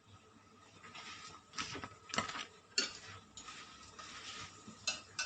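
Kitchen utensils and containers being handled: a handful of sharp clicks and light clatter, irregularly spaced, with soft rustling between them.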